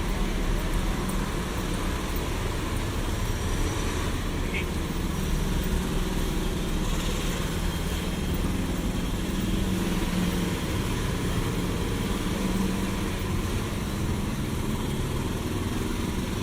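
City street traffic: a steady wash of passing cars and engine rumble, with no single event standing out.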